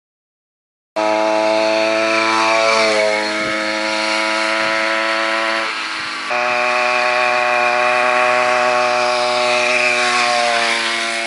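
Small gas engine of a motorized bicycle running steadily at high revs with a buzzy, chainsaw-like tone, easing off slightly a few times and dipping briefly near the middle; it starts and stops abruptly.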